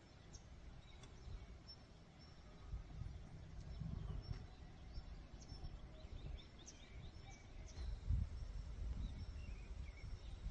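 Small birds chirping in short high calls, with a quick run of falling notes about two-thirds of the way through, over a low uneven rumble of outdoor background noise.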